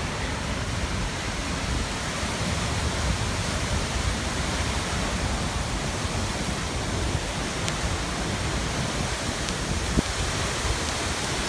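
Steady rushing noise of a large waterfall, heard as a raging waterfall close by. A single faint knock comes near the end.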